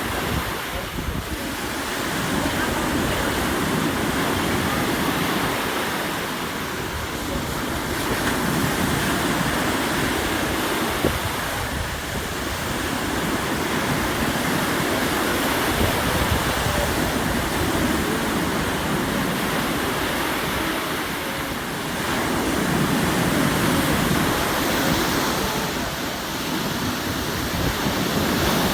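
Sea waves washing onto the shore: a steady rush of surf that swells and eases every several seconds.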